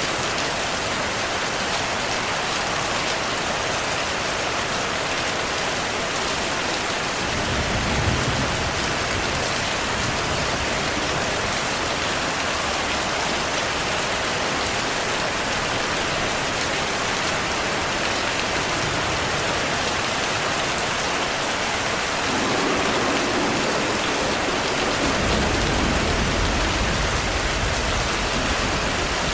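Steady heavy rain with low thunder rumbles, one about seven seconds in and a longer one over the last several seconds.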